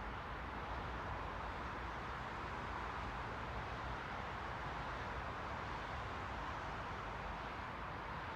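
Steady white noise: an even, unbroken hiss strongest in the middle range, with no tones, rhythm or separate events.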